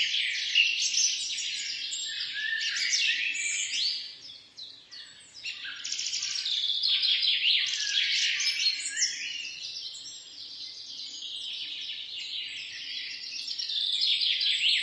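A chorus of small birds chirping and singing, many high, rapid calls overlapping. The chorus thins briefly about four seconds in, then fills out again.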